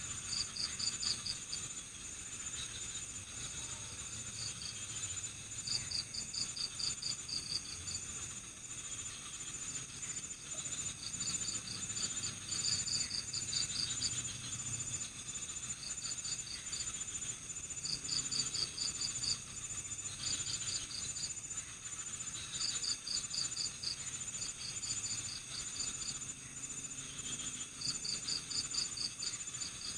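Night insect chorus of crickets: one chirps in rapid pulsed bursts about a second long, repeating every few seconds, over a steady high-pitched trill from others.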